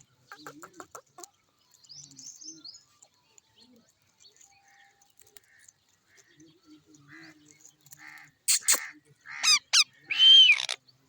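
Green parrot calling: soft chirps and chatter, then a run of loud, harsh squawks with sharp pitch glides in the last few seconds.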